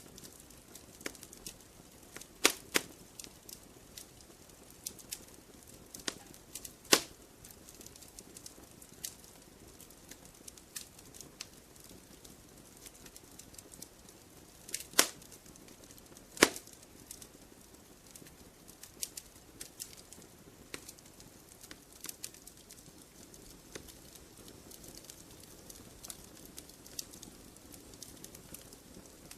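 Wood fire crackling in a fireplace: irregular small snaps and pops over a faint hiss, with a handful of louder pops scattered through.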